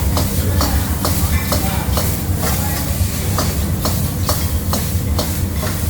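Restaurant clatter: cutlery and dishes clinking in quick, irregular clicks over a steady low hum, with faint background chatter.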